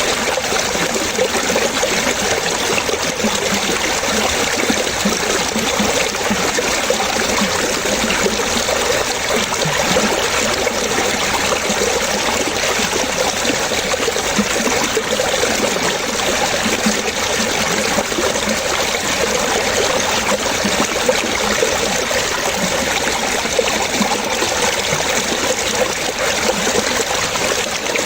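Running water trickling and splashing steadily and continuously, with no single splash standing out.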